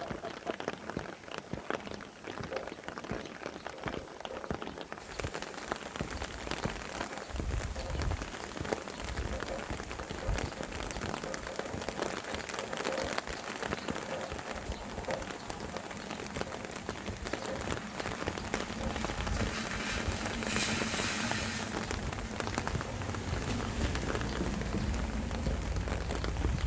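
Steady rain falling on surfaces, with many separate drops ticking through a dense hiss. A low wind rumble comes in about a quarter of the way in, and the rain swells into a brief louder rush about three-quarters of the way through.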